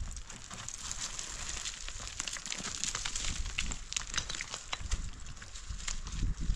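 Irregular crackling: many small sharp clicks over a low rumble.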